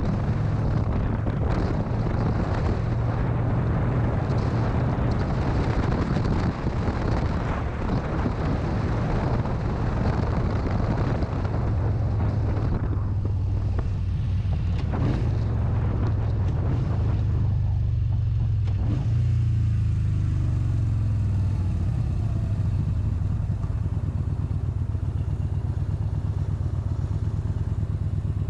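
Motorcycle engine running steadily while riding, with wind rushing over the microphone. About halfway through, the wind noise drops away and the engine carries on at a lower pace, as when the bike slows down.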